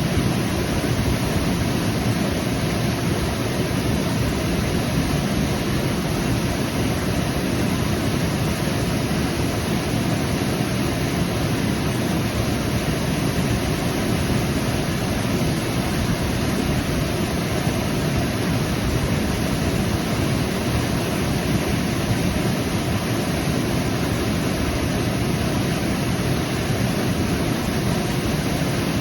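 Waterfall: falling water rushing in a deep, even, unbroken wash of sound with no change in level.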